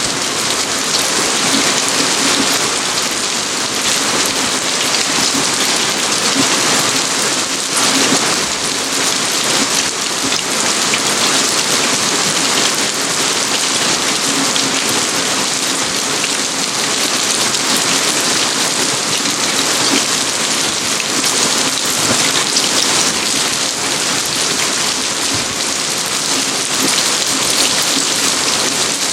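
Steady, heavy rain: a constant hiss with many small drop impacts, unchanging throughout.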